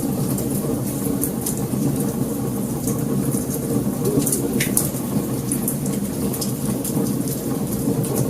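Wood fire burning: a steady low rumble of flames with frequent sharp crackles and pops.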